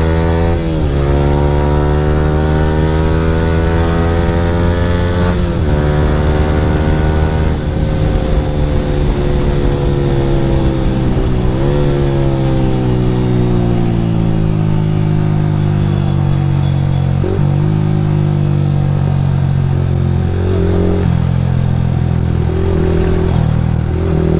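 Yamaha R15 V3's single-cylinder engine through an Akrapovic R9 exhaust, ridden hard. The revs climb and drop sharply at upshifts about a second, five and a half and eleven and a half seconds in. After that the revs fall slowly as the bike eases off, with a few short blips near the end.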